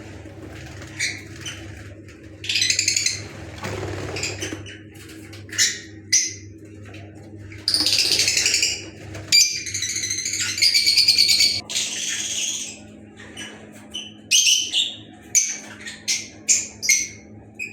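Lovebirds chattering in repeated bursts of shrill, high chirps, with a longer run of rapid calls in the middle and short separate calls near the end.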